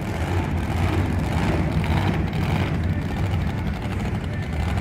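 Monster truck engine running steadily, a dense low rumble.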